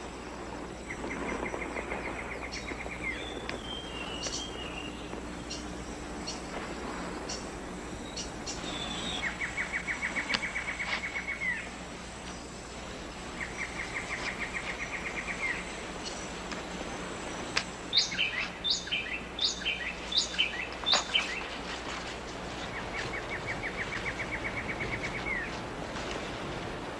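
Rainforest canopy ambience with birds calling: a rapid pulsing trill of about two seconds, repeated four times, a short falling whistle near the start, and a run of sharp high chirps about two-thirds of the way through, over a steady background hiss.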